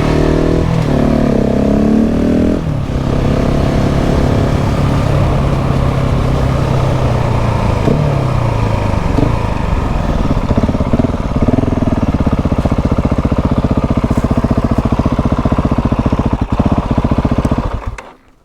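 KTM 690 SMC R's single-cylinder engine revving, then its pitch falling away as the bike slows, settling into an even low thump near idle before cutting off near the end.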